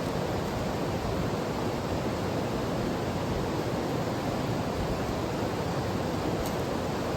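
A mountain stream rushing steadily over rocks, an even wash of water noise.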